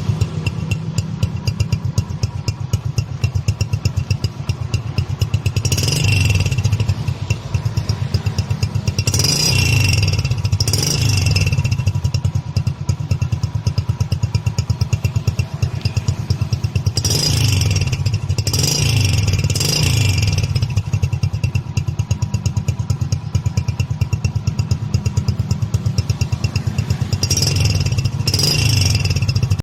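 Hero Splendor Plus's single-cylinder four-stroke engine running through an aftermarket GCL silencer, giving a loud, rapid thumping exhaust note. It is blipped up briefly several times, with surges about six seconds in, around ten, around eighteen to twenty, and near the end.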